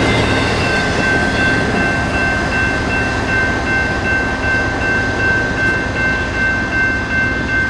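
Freight train rolling past at close range: a steady rumble and clatter of cars on the rails, with a high, steady ringing tone over it that stops abruptly at the end.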